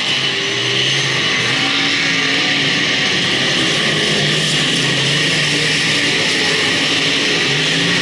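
Several speedway race car engines running hard together, their pitch rising and falling as the cars lap the track.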